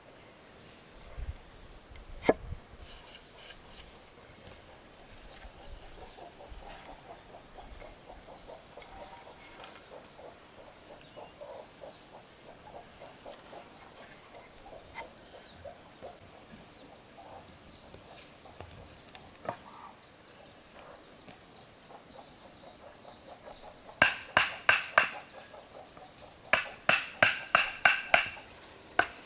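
A steady high-pitched chorus of insects, crickets or the like, trilling throughout. Near the end comes a run of sharp, ringing hammer blows: four quick strikes, then about eight more, as in nailing wood. One or two single knocks come earlier.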